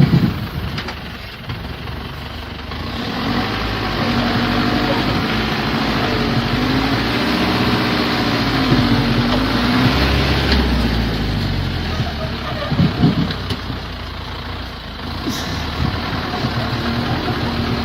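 Heavy wood chipper running. Its engine pitch sags and rises under load from about three to ten seconds in, over a loud rushing of material going through, then eases back.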